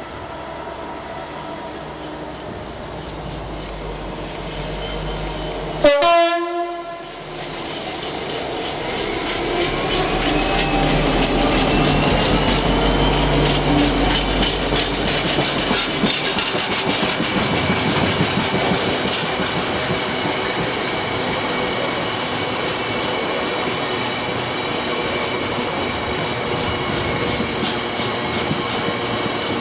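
Class 59 diesel locomotive, its EMD two-stroke V16 engine rumbling as it approaches and passes, with a single short horn blast about six seconds in. From about sixteen seconds the engine has gone by and the long rake of box wagons rolls past with a steady clickety-clack of wheels over the rails.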